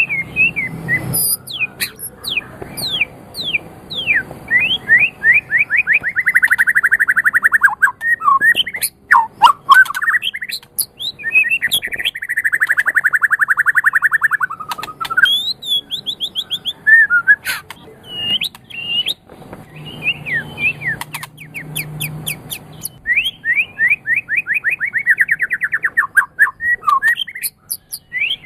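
White-rumped shama singing a loud, varied song. Sharp down-slurred whistles alternate with runs of rapid repeated notes held at one pitch for a few seconds at a time, with a few short clicks in between.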